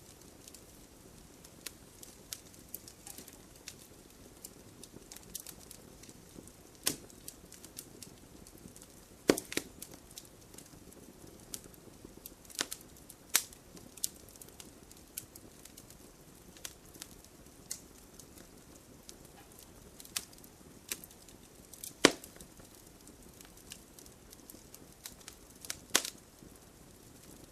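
Wood campfire crackling and popping: irregular sharp pops and snaps over a low steady hiss of the flames, with a few louder pops scattered through.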